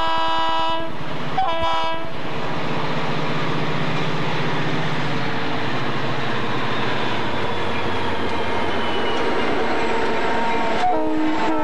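Diesel freight locomotives' air horn sounding for a grade crossing. A long blast ends about a second in and is followed by a short blast. The engines then drone and the train rolls past with wheel noise, and the horn sounds again near the end.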